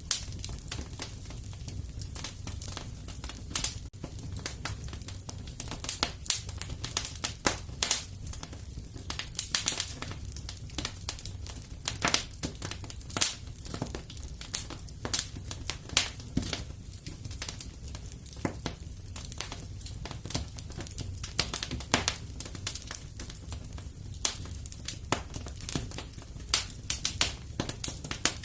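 Wood fire crackling and popping in a fireplace: irregular sharp snaps over a low steady rumble of the burning logs.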